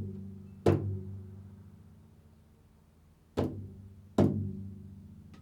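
A low-pitched drum is struck three times, once near the start and twice more about three seconds later. Each stroke rings on with a deep pitched hum that fades slowly.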